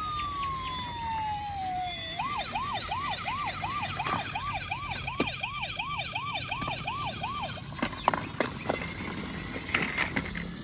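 Electronic toy police-car siren: a falling tone for about the first two seconds, then a fast repeating wail at about two and a half cycles a second that stops about three-quarters of the way through, followed by a few light clicks.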